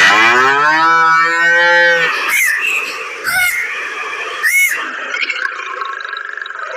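A cow mooing once for about two seconds, its pitch rising and then holding. Three short, high gliding calls follow over a steady background.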